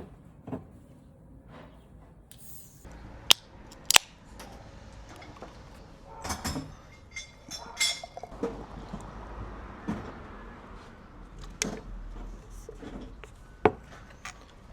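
Scattered sharp knocks and clicks, about seven of them at uneven intervals, over a low steady background.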